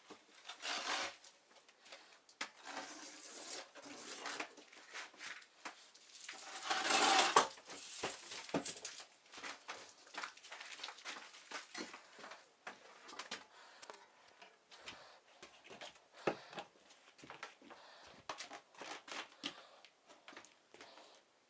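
Hand tools scraping on a plastered wall in uneven strokes, with light clicks and knocks; the loudest scrape comes about seven seconds in.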